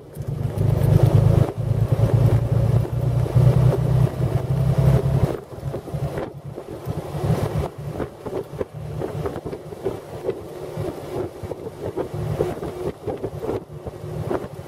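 1917 Buick six-cylinder overhead-valve engine running under way in the open touring car, with wind buffeting the microphone. The loud low drone of the engine drops away abruptly about five seconds in, leaving a quieter, uneven running sound.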